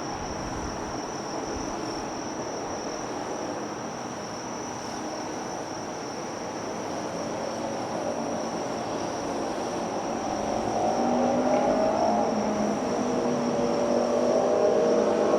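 Insects drone steadily at one high pitch over a low background rumble. From about two-thirds of the way in, a motor comes up louder with its pitch rising, like a vehicle accelerating.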